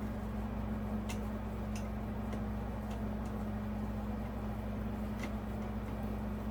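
Light, scattered clicks of small metal hardware and tools being handled during ceiling fan mounting, about five in all, over a steady low hum.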